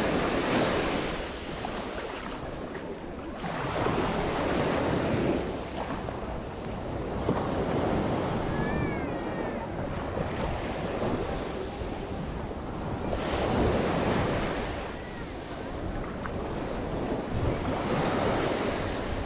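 Sea waves breaking and washing up on the beach, surging and receding every few seconds.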